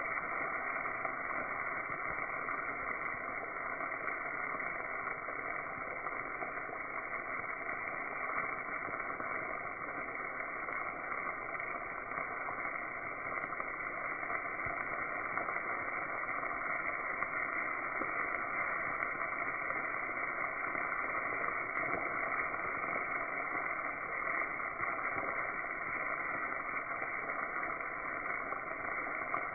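Battered morel mushrooms frying in hot oil in a skillet: a steady sizzle with a few faint scattered crackles.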